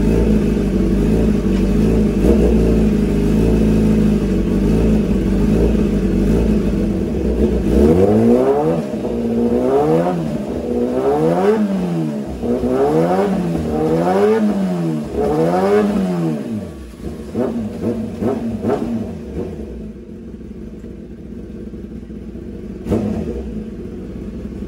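2015 Kawasaki ZX10R inline-four engine running on the rear stand, then revved again and again, the pitch rising and falling with each blip about a second and a half apart. A few sharp pops follow from the exhaust as the revs drop, before it settles lower and quieter.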